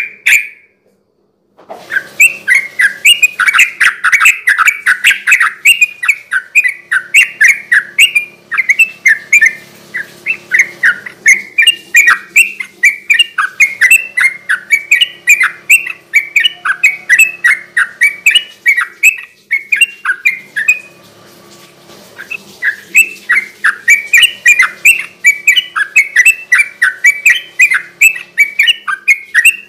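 Sooty-headed bulbul (trucukan) singing a fast, unbroken run of chirping notes, several a second, the rapid 'ropel' style of song. It starts about a second and a half in and breaks off briefly about two-thirds of the way through before going on.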